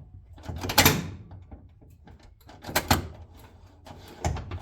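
Short clusters of clicks and clunks from the console shifter and its linkage hardware being worked by hand, three times.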